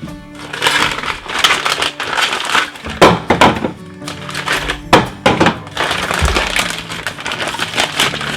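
Rustling and clattering of containers and food packages being handled and set into a refrigerator, with several sharp knocks, over soft background music.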